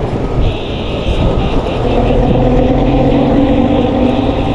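Road traffic with a motor vehicle's engine running steadily close by, over general street noise.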